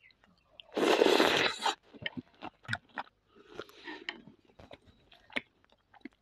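Close-miked crunching and chewing of a mouthful of fresh salad (lettuce and cucumber): one loud crunch about a second in, then quieter, scattered chewing clicks and smacks.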